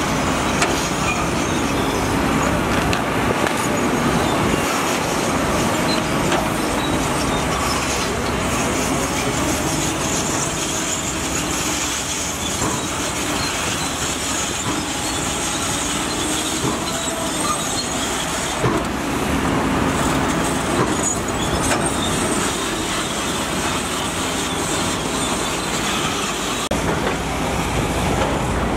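Heavy diesel construction machinery running steadily at work, with faint metallic clicks and squeals mixed into the engine noise.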